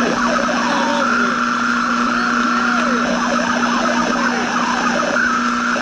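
Old radio static: a steady hiss with a constant hum and short wavering whistles that rise and fall in pitch.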